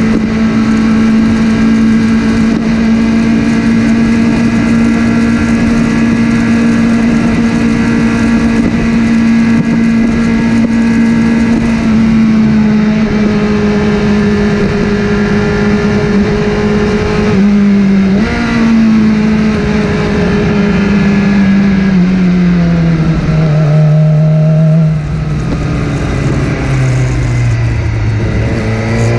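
Motorcycle engine running at a steady pitch under way. About 18 s in the pitch shifts briefly, as in a gear change, and towards the end the engine note falls in steps as the bike slows.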